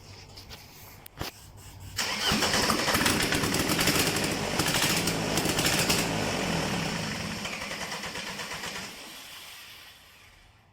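Mercedes OM611 2.2 CDI four-cylinder diesel starting about two seconds in, firing with a fast rattling beat and running loud for several seconds. It then dies away gradually near the end.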